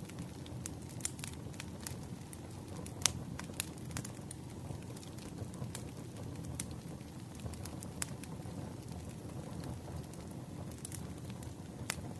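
Campfire crackling: irregular sharp pops and snaps over a steady low rumble of burning wood, the loudest pop about three seconds in.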